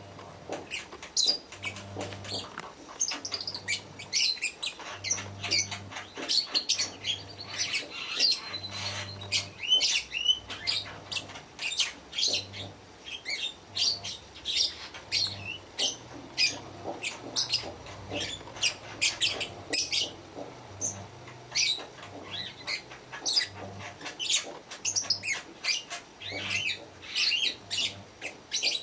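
Lovebirds chattering: a dense run of short, shrill chirps in quick succession, with a low hum pulsing on and off beneath.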